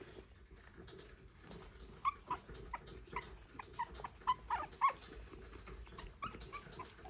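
Three-and-a-half-week-old Shih Tzu puppies whimpering and squeaking in short high-pitched calls, a dozen or so from about two seconds in, with faint clicks between them.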